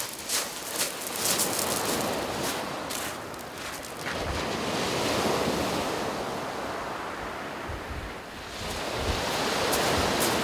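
Waves breaking and washing up a shingle beach, surging twice, with wind buffeting the microphone. Footsteps crunch on the pebbles in the first few seconds.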